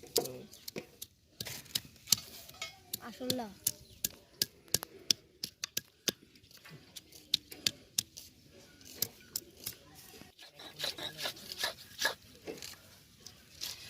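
Stone roller knocking and grinding on a flat stone slab (shil-pata) as chilies are crushed: a run of sharp, irregular clicks, a few a second.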